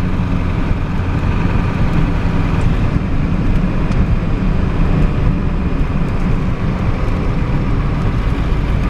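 Pickup truck running, a steady low engine hum under an even rumble of noise.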